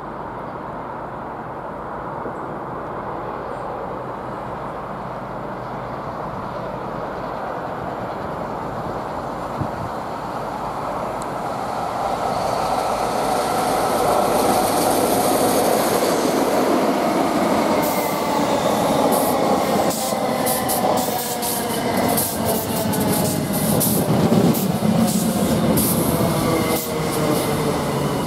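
High Speed Train with a Class 43 diesel power car and Mark 3 coaches approaching and running in along the platform, growing steadily louder. From about halfway there is a high whine that falls slowly in pitch, and in the last third there is a quick run of clicks as the wheels cross the rail joints.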